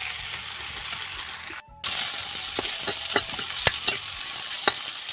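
Potatoes, onion and tomato sizzling as they fry in a metal kadai while a metal spatula stirs them, clicking and scraping against the pan again and again. The sound drops out briefly about a third of the way in.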